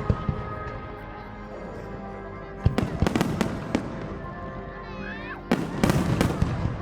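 Fireworks bursting in quick crackling volleys, a sharp bang at the start, a cluster about three seconds in and another about five and a half seconds in, with a whistling shell just before the second cluster. Music plays steadily underneath.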